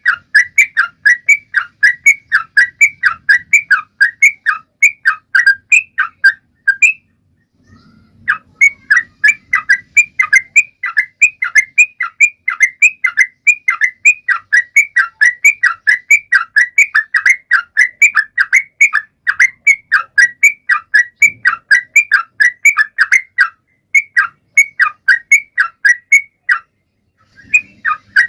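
Yellow-vented bulbul (trucukan) singing continuously in gacor form: a fast, steady run of short whistled notes, about three a second, with a brief break about seven seconds in and another near the end.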